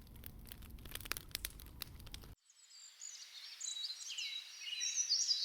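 Faint scattered crackling clicks for about two seconds, then an abrupt cut and birds singing outdoors, with quick chirps and sweeping calls.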